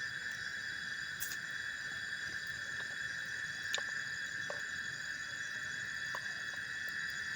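Night insects, crickets among them, chirring in a steady unbroken chorus. A few short clicks stand out, one about a second in and another near the middle.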